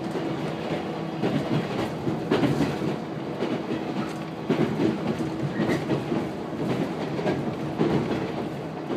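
Interior running noise of a JR 115-series electric train at speed, heard from inside the passenger car: wheels clattering over rail joints with a steady hum underneath.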